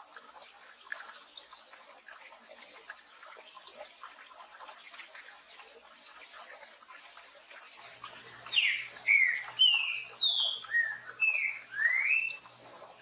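Green-winged saltator (trinca-ferro) singing one phrase of about seven clear, slurred whistled notes in the last few seconds, over a steady hiss of rain.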